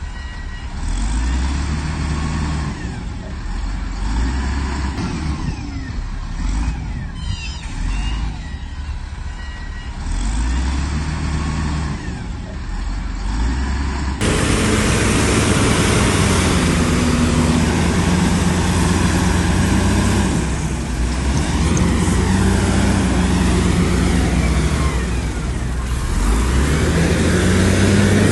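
Diesel engines of heavy earthmoving machinery working, the engine note rising and falling repeatedly with throttle and load. About halfway through the sound cuts abruptly to a louder engine with a more pronounced rise and fall in pitch.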